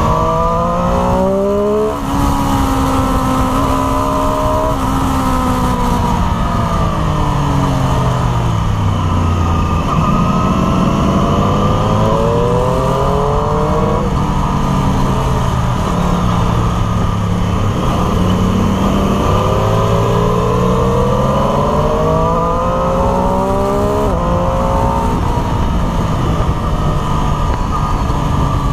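Triumph Street Triple RS 765 cc inline-three engine heard from on the bike, revs repeatedly climbing under throttle and dropping sharply at upshifts about 2, 14 and 24 seconds in, with a slow fall in pitch on the overrun in between. Steady wind rush over the microphone underneath.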